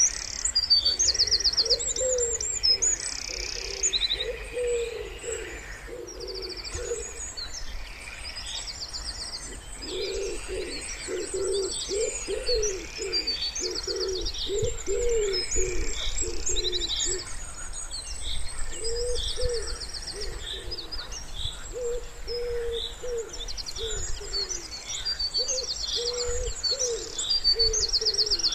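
Wood pigeon cooing in repeated phrases, with pauses between runs, over songbirds singing high, fast trills and chirps. A low, steady rumble lies underneath.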